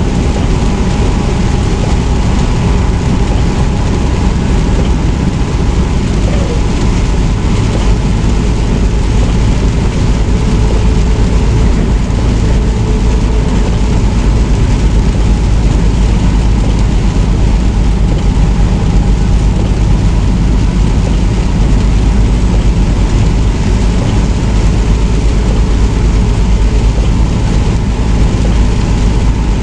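Steady, loud drone of a semi truck on the road, heard from inside the cab: engine and road noise with a faint steady whine.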